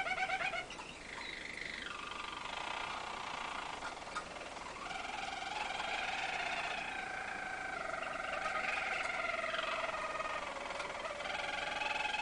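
Harzer Roller canary singing its low, rolling song in long, sustained trilled phrases, with a brief break about a second in.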